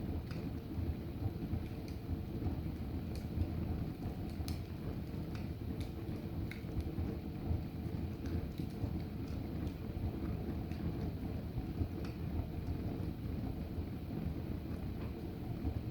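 Fire of books and logs burning in a fireplace: a steady low rumble with scattered crackles and pops.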